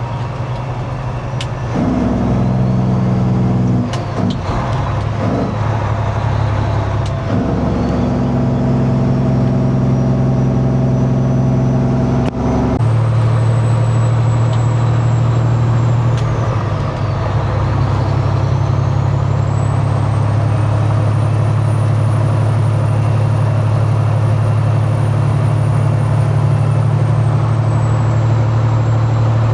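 Semi truck's diesel engine running under way, heard from inside the cab. Its note changes in steps a few times in the first half, then holds steady.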